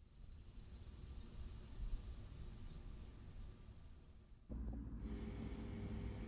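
Low background hum with a faint, steady high-pitched whine. About four and a half seconds in, the whine stops and a louder steady hum with a low tone in it starts, as if a machine had switched on.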